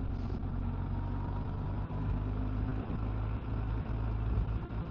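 Motorcycle engine running steadily at riding speed, a low even drone with road and wind noise over it.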